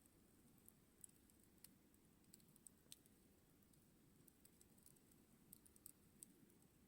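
Faint campfire crackling: irregular small pops and ticks from the burning wood over a steady low rush.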